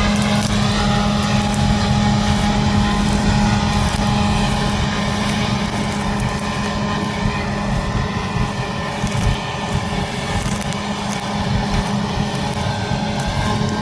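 Heavy diesel harvest machinery running steadily: a continuous deep engine hum with a steady whine of drives on top.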